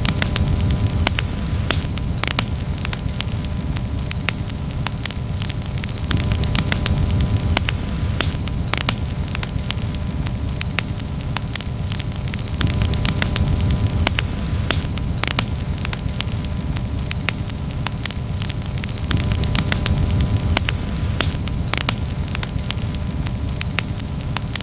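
Wood campfire crackling, with many sharp pops and snaps over a continuous low rumble of burning that swells and eases every few seconds.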